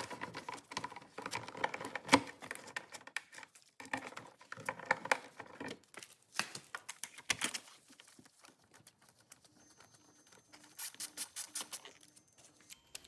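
Hand ratchet clicking as fairing bolts are loosened, with scattered light clicks and taps of tools on the bike. There is a quick run of ratchet clicks near the end.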